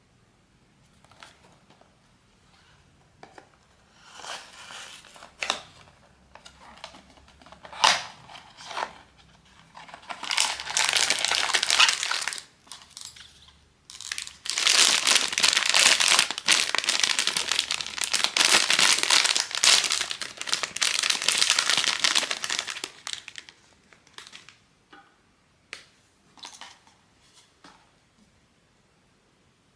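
Plastic blind-box packaging being crinkled and torn open by hand. There are scattered rustles and clicks, then two long stretches of loud crinkling, the second lasting about eight seconds, before it settles to a few light ticks.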